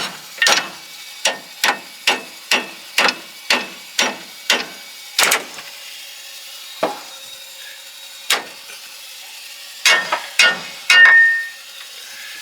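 Hammer striking steel on a car's front suspension and steering parts near the tie rod, with about a dozen sharp blows at about two a second, a pause with two single blows, then a quick run of hits near the end, one of which rings briefly.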